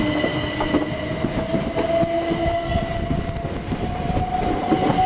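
Class 375 Electrostar electric multiple unit moving through the station: its traction motors whine steadily, rising slightly in pitch, over the rumble and clack of the wheels on the rails.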